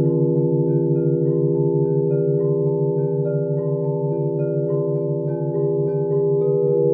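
Crystal singing bowls ringing in long, overlapping sustained tones, the lowest one wobbling as it beats. Over them runs a quick repeating pattern of short, higher bell-like notes, about three a second.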